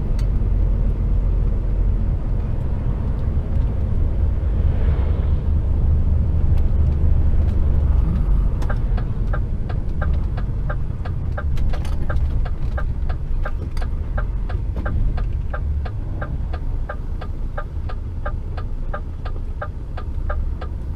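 Steady low rumble of a truck's engine and road noise inside the cab. About eight seconds in, a regular ticking starts and carries on, about two to three ticks a second: the turn indicator on as the truck prepares to turn right.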